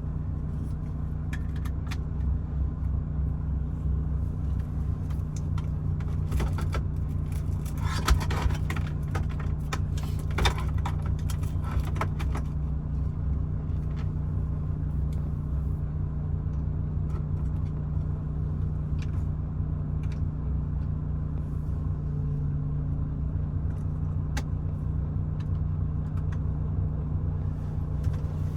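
Truck engine running steadily, a low drone with a held hum. A burst of small clicks and rattles comes about eight to twelve seconds in.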